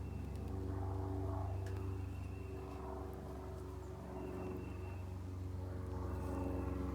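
Honeybees from an opened nucleus colony buzzing en masse: a steady drone of several overlapping low pitches.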